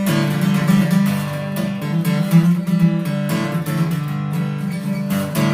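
Acoustic guitar strummed in a steady rhythm, playing an instrumental passage of chords between sung lines.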